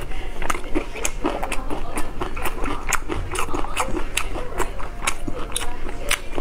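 A person chewing close to the microphone: many sharp, wet mouth clicks and crisp crunches of lettuce leaf, several a second. Near the end comes a bite into a lettuce wrap.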